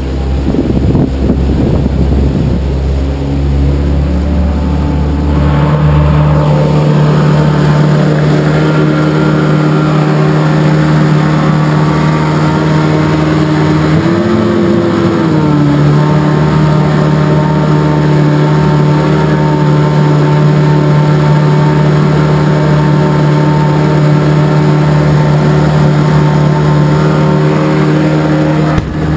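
A pontoon boat's motor running under way, opening up about five seconds in to a steady, loud cruising pitch. Around the middle the pitch briefly shifts, then settles back to the same steady run.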